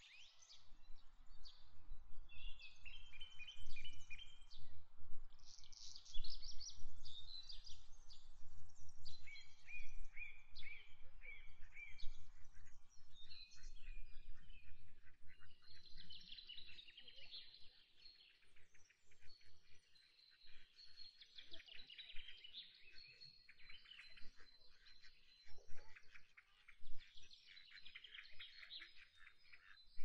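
Many small birds chirping and calling at once in a dense, overlapping chatter, with a low rumble underneath during the first half.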